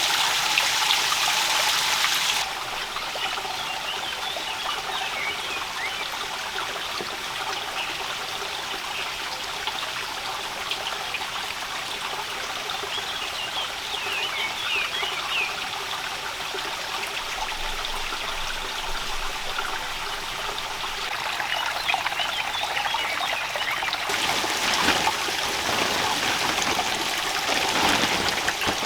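Steady trickling, running water. The sound turns quieter and duller about two seconds in and brighter again near the end, with a few faint chirps in between.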